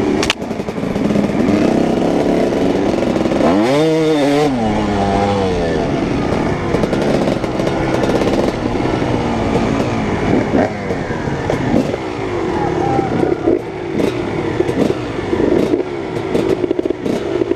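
Dirt bike engines running, with one revved up and back down about four seconds in.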